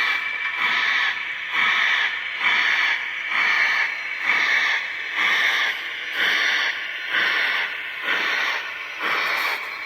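Lionel VisionLine GS-1 model steam locomotive's onboard sound system playing steam chuffs in a slow, even rhythm of a little more than one hissing chuff a second.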